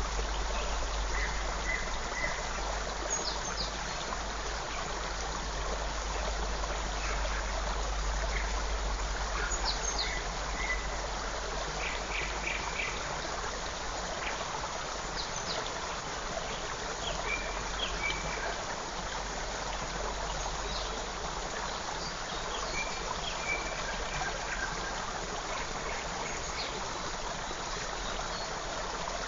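Forest creek flowing steadily, with short high bird calls and chirps breaking in now and then over the rush of water.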